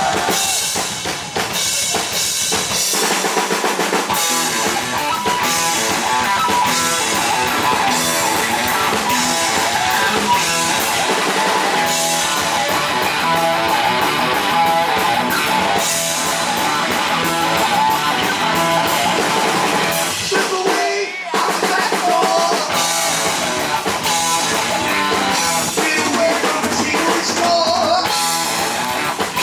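Heavy metal band playing live: distorted electric guitar, bass and drum kit, with a short break about two-thirds of the way through.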